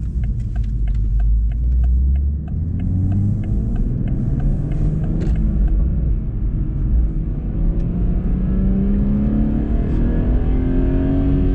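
Car engine and road rumble while driving. A regular fast ticking runs for the first few seconds, then the engine note climbs steadily as the car accelerates.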